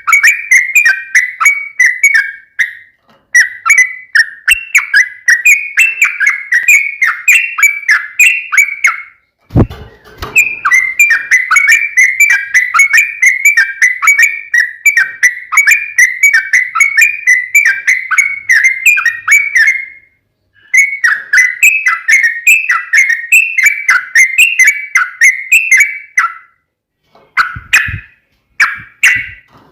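Yellow-vented bulbul (trucukan) singing long runs of rapid, bubbling chattering notes, in phrases of several seconds broken by short pauses. A low thump comes about ten seconds in.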